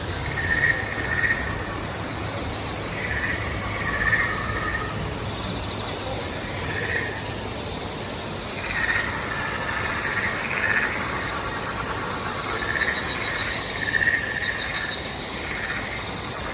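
An ambient chorus of short chirps and quick trills, like insects and frogs, repeating irregularly throughout over a low steady rumble.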